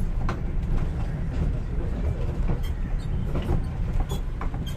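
Train running, a steady low rumble with scattered short clicks and clacks.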